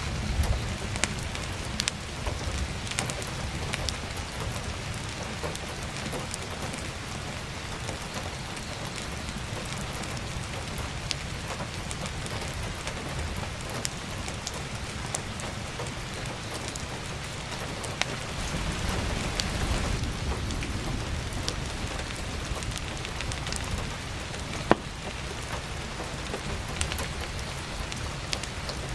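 Heavy rain pattering steadily on an attic skylight, with the scattered crackles and pops of firewood burning in a wood stove. A low rumble swells for a few seconds past the middle, and a single sharper pop comes near the end.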